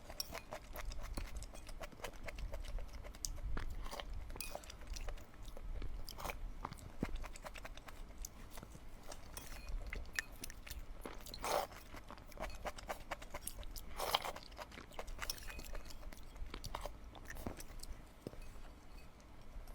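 A person chewing and biting food close to the microphone, with many small clicks and louder bursts of chewing about 11 and 14 seconds in.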